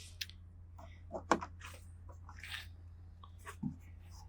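Quiet eating sounds: chewing and mouth noises with scattered small clicks and rustles, the sharpest click about a second in, over a faint steady low hum.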